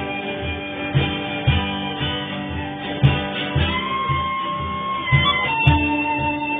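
Acoustic guitar strumming a steady beat, about two strokes a second, in an instrumental break of a folk song. From a little past the middle, a melody instrument joins with long held notes.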